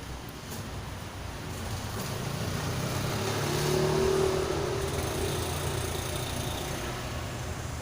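A motor vehicle's engine passing by, swelling to its loudest about four seconds in and then fading away.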